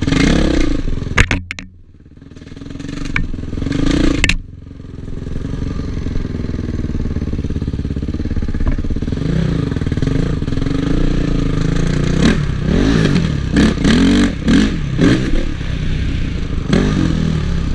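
Honda CRF450 motocross bike's single-cylinder four-stroke engine, heard from the rider's helmet camera, revving hard with the throttle chopped twice in the first few seconds. It then runs steadily before a run of quick revs rising and falling near the end.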